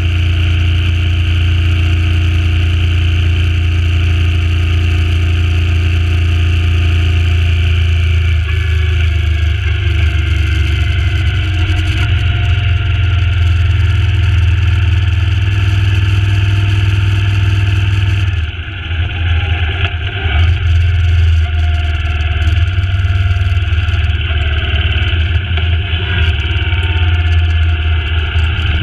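Suzuki Intruder C800's V-twin engine running steadily at road speed, with wind rushing over the bike-mounted microphone. About two-thirds of the way through, the throttle comes off and the bike slows, the wind noise dropping away and the engine note turning uneven.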